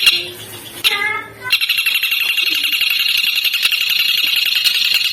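Recorded songbird song: a rapid, continuous high-pitched chattering trill, interrupted near the start by a brief run of quick falling notes before the trill resumes.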